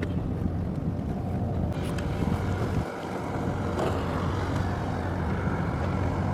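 Boat engine running with a steady low hum, with wind on the microphone.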